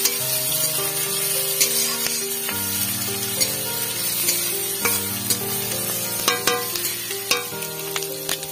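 Onions, green chillies and garlic sizzling in mustard oil in a kadai, stirred with a spatula that scrapes and taps the pan. Background music with held notes plays over it.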